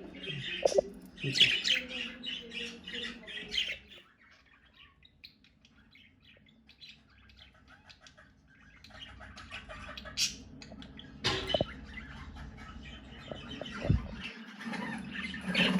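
Budgerigars chattering with squawks and chirps; the chatter drops away to faint chirps about four seconds in and picks up again about nine seconds in.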